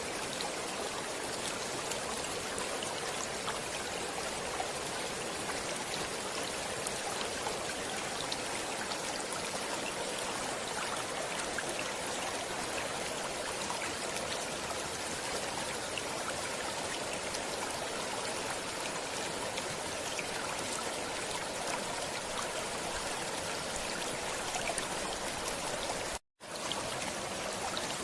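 Flowing stream water, a steady rush with fine splashing and trickling over rocks. Near the end it cuts out completely for a split second, then resumes.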